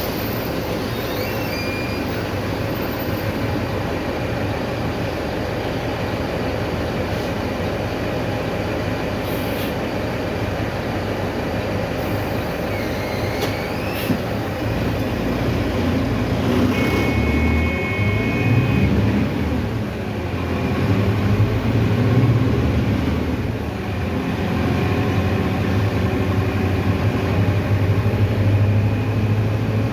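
A Mercedes-Benz OF-1519 diesel city bus under way, heard from inside the cabin: a steady engine drone and road noise. The engine grows louder from about halfway as it pulls, and there is a short high tone just after that.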